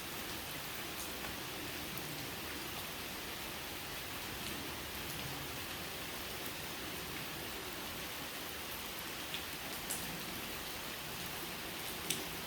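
Steady rain falling, with a few sharper, louder drops landing in the last few seconds.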